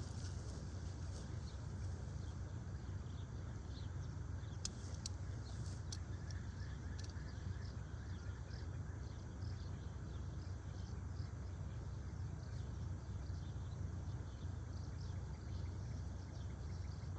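House martins giving many short, dry twittering calls, scattered throughout, over a steady low rumble. A few sharp clicks come about five seconds in.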